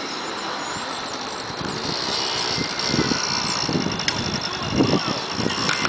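Motocross dirt bike engine running, growing louder about two seconds in, with a few low thumps near the end.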